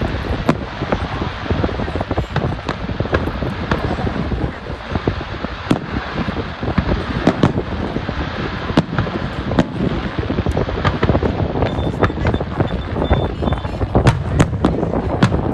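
Fireworks display going off continuously: a dense run of overlapping bangs and crackling, with a few sharper reports standing out.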